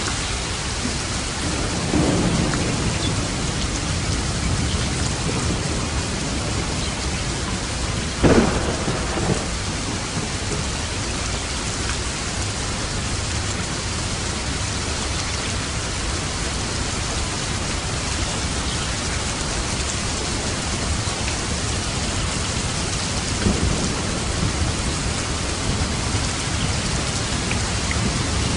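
Steady heavy rain with thunder: a low rumble about two seconds in, a sharp, loud thunderclap at about eight seconds, and another rumble near the end.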